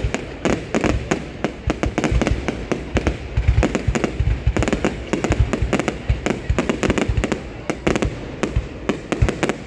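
Fireworks display: a rapid, continuous barrage of bangs and crackling shell bursts, several a second, with deep booms underneath.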